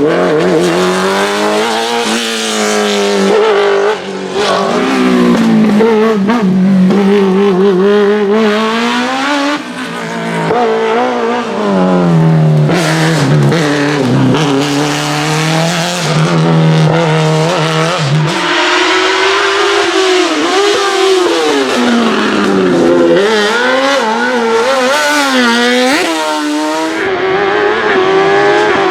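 Race car engine worked hard through a cone slalom, its revs climbing and dropping again and again as the driver accelerates, lifts and shifts between cones, with tyre squeal. About halfway through the revs hold level for several seconds before the rising and falling starts again.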